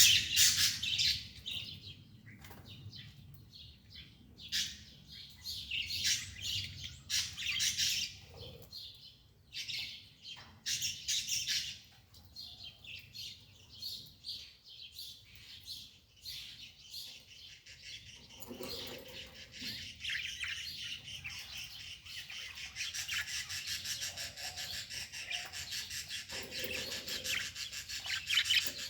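Birds chirping, short high calls repeated throughout.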